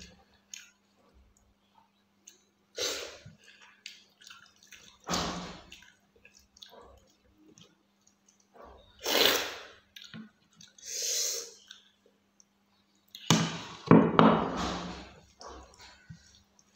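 Close-miked wet eating sounds of rice and fish curry eaten by hand: chewing, smacking and squishing in about half a dozen separate bursts with small clicks between, over a faint steady hum.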